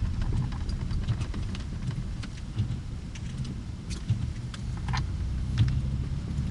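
Car engine and road rumble, heard as a steady low drone, with scattered short clicks and ticks over it.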